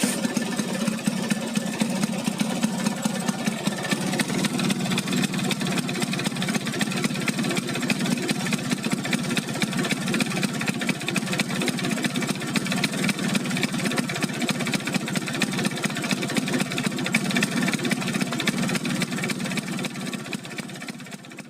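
Vespa PX two-stroke single-cylinder engine idling steadily through a stock Danmotor exhaust, fading out near the end.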